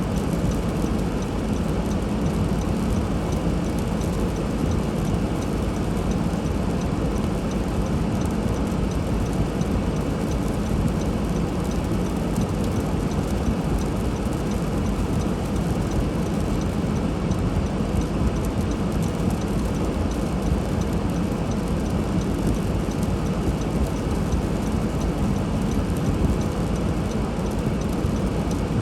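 Steady low rumble of a car being driven, tyre and engine noise over snowy roads, unchanging throughout.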